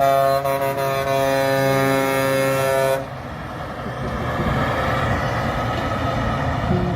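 Semi truck's air horn held in a long steady blast that cuts off sharply about three seconds in, followed by the rushing noise of the truck going past.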